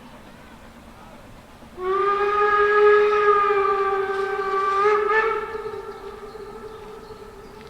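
Narrow-gauge steam locomotive whistle giving one long steady blast, starting about two seconds in, lifting slightly in pitch just before it ends, then fading away.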